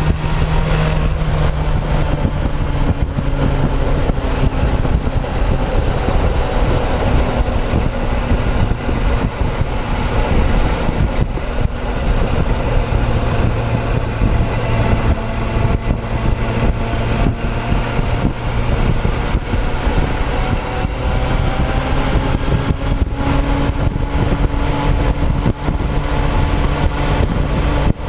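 Motorcycle engine running steadily under way, heard from a tank-mounted camera, under a heavy rush of wind over the microphone. The engine note shifts a little in pitch now and then.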